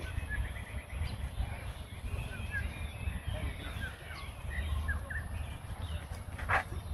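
Outdoor ambience: scattered short bird chirps over a steady low rumble and a steady high hiss, with one louder short sound near the end.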